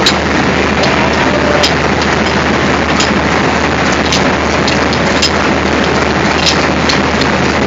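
Diesel locomotive engine idling with a steady low hum under a broad noisy rumble, with scattered sharp clicks.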